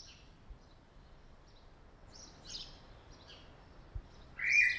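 Small birds chirping: scattered short, high calls over a faint background hiss, with a louder, sharper burst of chirps near the end.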